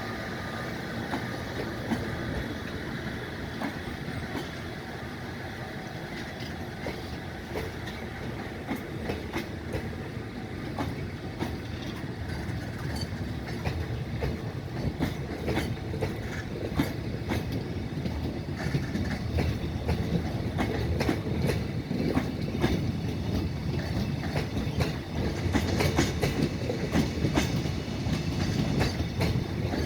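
Container freight train wagons rolling past, steel wheels clicking over the rail joints over a steady rumble, growing louder and busier in the second half.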